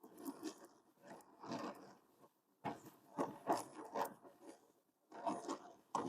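Brazing torch flame roaring and crackling in uneven surges with brief drop-outs, heating steel and cast iron.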